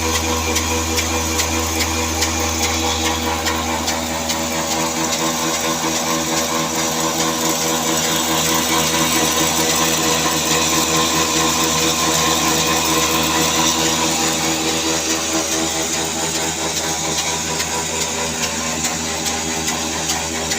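Old 24 hp black diesel engine running steadily with an even, fast beat, swelling a little louder in the middle and easing back.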